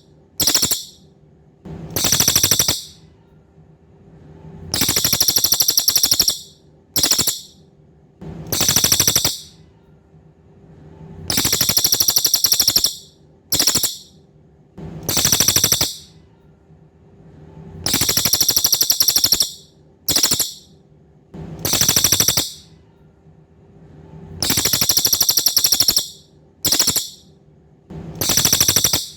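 Cililin songbird singing rapid, high-pitched buzzing trills in a fixed grouping, a long trill, a short one, then another long one, that repeats about every six and a half seconds. The exact repetition marks it as a looped 'masteran' tutor recording for teaching caged competition songbirds. A faint steady hum runs underneath.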